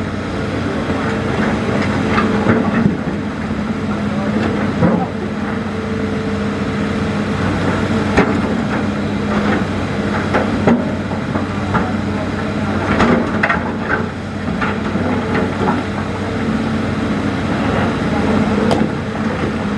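Hitachi Zaxis hydraulic excavator's diesel engine running steadily, with scattered sharp knocks and clanks throughout.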